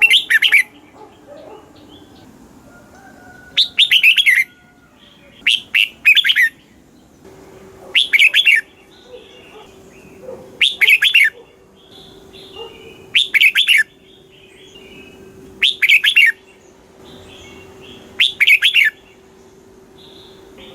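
Red-whiskered bulbul singing its short, loud whistled phrase over and over, about once every two and a half seconds, with softer chirps between the phrases.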